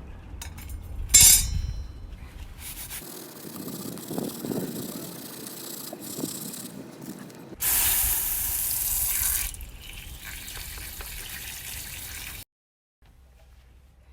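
Water running and spraying, in several short clips cut together, with a louder hissing spray for about two seconds near the middle.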